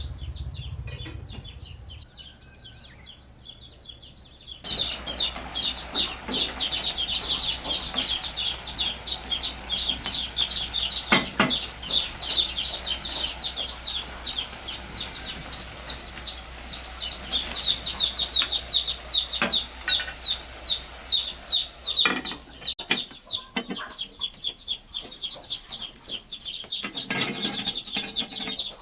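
Chickens clucking, with a rapid run of high-pitched calls.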